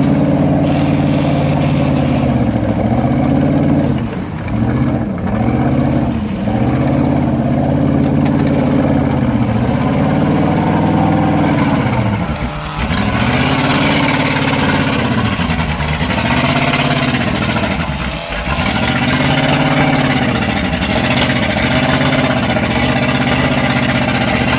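Vehicle engine revving up and down over and over, about every two seconds, working under load while a stuck three-quarter-ton truck is dragged out of mud.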